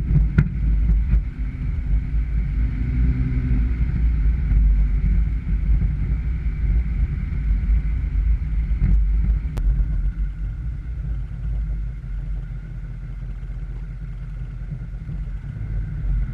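A steady low rumble with a faint, steady higher hum over it.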